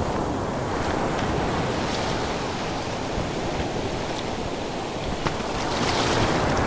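Ocean waves breaking and washing on a shore, a steady surf that swells twice.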